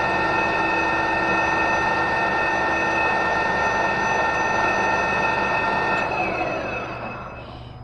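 Metal lathe running steadily with a whine of several tones; about six seconds in it is switched off and its pitch falls as it spins down.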